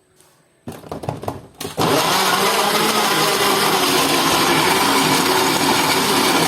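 A few knocks and clatters, then about two seconds in an electric blender switches on and runs steadily, blending fresh tomatoes.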